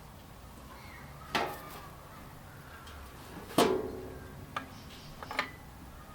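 Metal parts being handled and knocked together: four sharp clanks, the loudest about three and a half seconds in with a brief ring after it.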